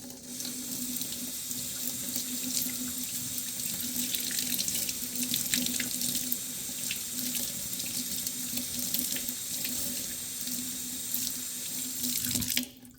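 Water running steadily from a sink tap into a sink, with small splashes, stopping abruptly near the end.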